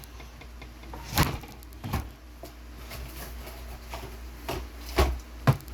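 Soda cans knocking and clunking as they are loaded into a fridge's can-dispenser rack: about five separate knocks, the loudest about a second in and near the end.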